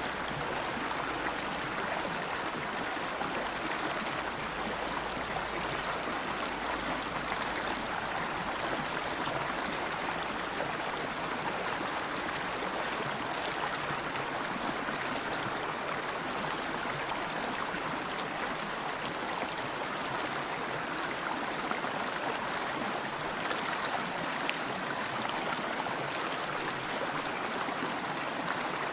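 River water flowing steadily over stones, an even rushing and burbling.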